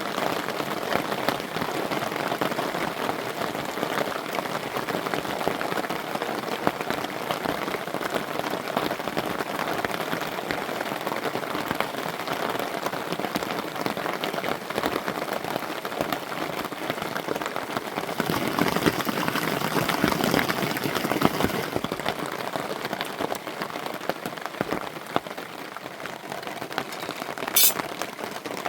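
Steady rain pattering, heavier for a few seconds past the middle, with one short sharp high click near the end.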